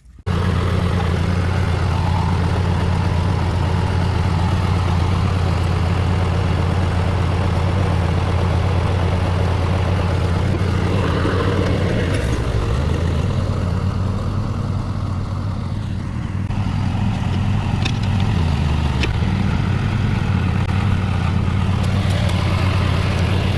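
An engine running steadily at a constant speed, a deep even hum with a slight dip in level around the middle.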